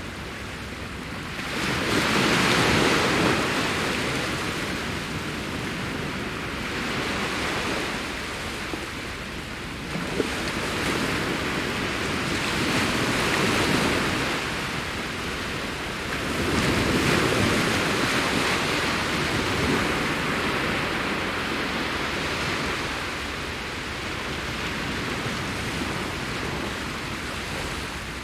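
Ocean waves breaking and washing up on a beach, a steady hiss of surf that swells and falls as each wave comes in, with some wind.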